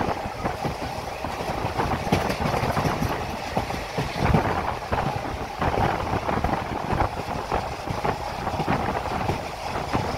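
Passenger train in motion, heard from inside the carriage: a continuous rumble with an irregular clatter of the wheels running over the track.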